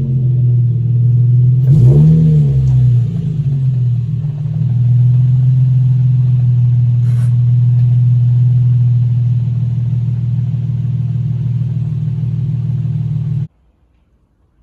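Nissan 350Z's 3.5-litre V6 idling. About two seconds in, a short throttle blip briefly lifts the pitch before it settles back to a steady idle, and the sound cuts off suddenly near the end.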